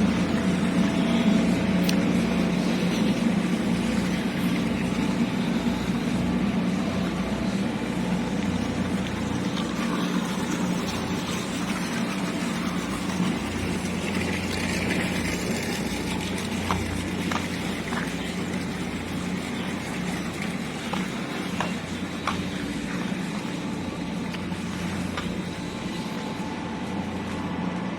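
A motor engine running steadily, a low even drone that eases slightly in level, with a few faint clicks in the second half.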